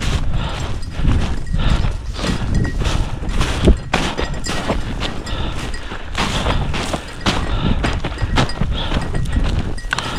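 Footsteps crunching through snow and dry cover in an uneven walking rhythm.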